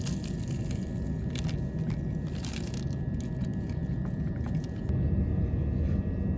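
Passenger train running, a steady low rumble heard from inside the carriage; about five seconds in the rumble gets a little louder.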